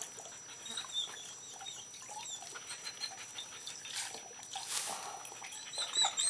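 Dog whining in a run of short, high-pitched whimpers and chirps.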